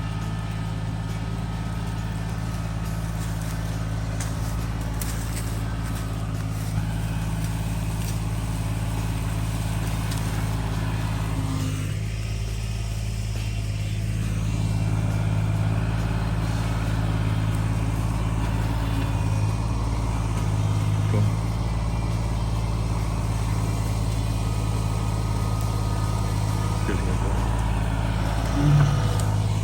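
Tractor engine running steadily under load, getting a little louder about halfway through, with a short knock near the end.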